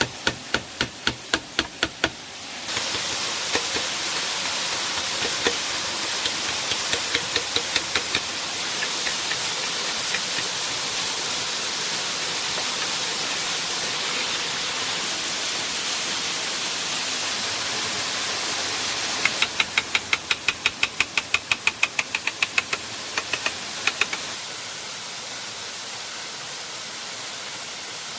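Steady rush of falling water, with runs of sharp knocks several a second near the start and again about twenty seconds in. The rush steps down a little near the end.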